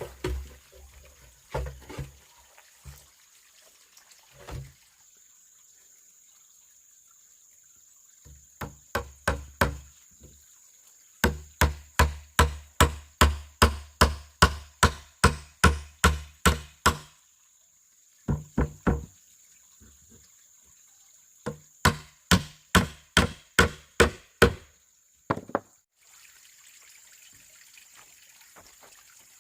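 Repeated heavy blows of a hand tool on wood or bamboo, in runs of about three strikes a second with pauses between runs; each strike lands with a dull low thud.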